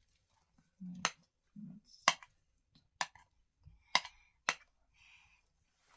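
Five sharp clicks, roughly a second apart, the last two close together.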